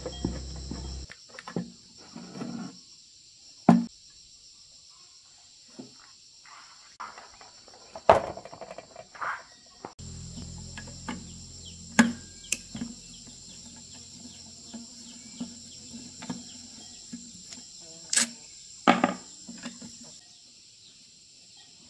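Scattered sharp knocks and clanks, the kind made when tools and metal engine parts are handled during repair work, over a steady chorus of insects. A low hum comes in about ten seconds in and stops near the end.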